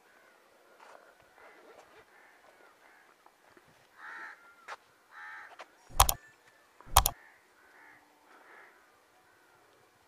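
Birds calling outdoors: short repeated calls, the two clearest about four and five seconds in and fainter ones scattered throughout. Two sharp clicks, the loudest sounds, come about a second apart near six and seven seconds in.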